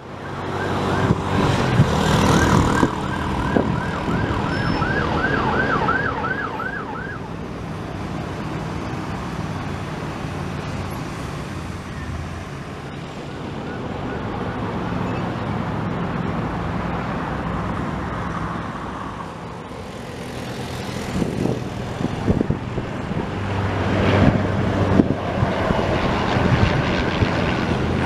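An emergency vehicle's siren yelps rapidly for the first several seconds over road traffic and a steady engine drone. Later a faint whine slowly falls in pitch, and noisy gusts come near the end.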